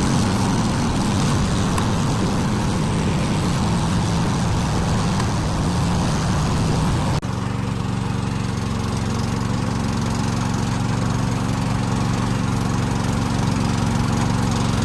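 Small utility-vehicle engine running steadily under way, with an abrupt change in its tone about halfway through.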